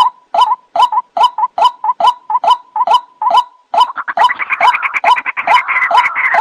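Recorded white-breasted waterhen (ruak-ruak) calls played as a hunting lure: a fast repeated 'kruwak' note, about three a second. About four seconds in, a busier chattering layer of calls joins.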